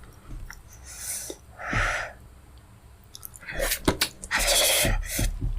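A person eating very spicy pepper soup makes several sharp, breathy bursts with mouth clicks between them. The longest and loudest burst comes near the end.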